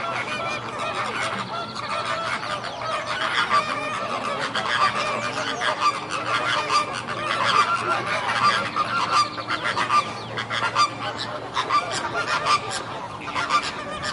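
A flock of flamingos calling, many honking calls overlapping without a break.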